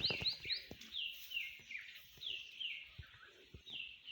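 A small bird calling repeatedly with short, quick chirps, often in pairs, along with a few faint knocks.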